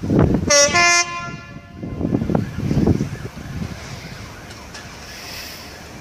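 A train horn sounds once, a steady note about a second long, shortly after the start. Gusts of wind buffet the microphone around it.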